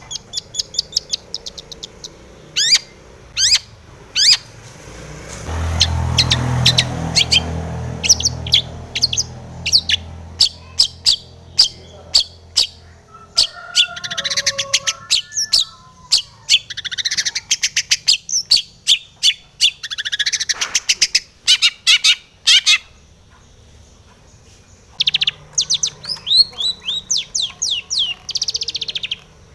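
Long-tailed shrike (cendet) singing in quick runs of sharp, high chirps and fast rattling trills, with varied phrases of the kind bird keepers call its isian. A low rumble runs underneath for a few seconds near the start, and the song pauses briefly near the end before resuming.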